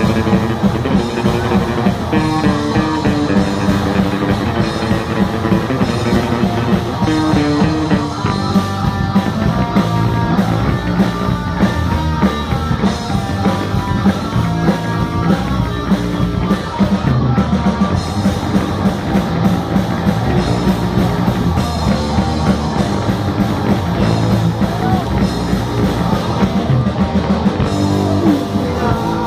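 A rock band playing live: drum kit and electric guitars, loud and continuous with a steady beat.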